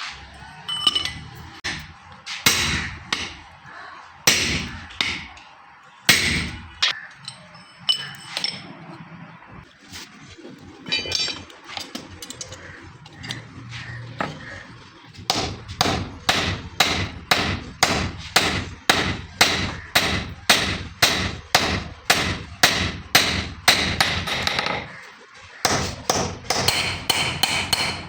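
Hammer blows on steel against an anvil, forging metal by hand: a few spaced strikes with a ringing tone, then a steady run of about two blows a second from about halfway through, a short pause near the end, and more blows.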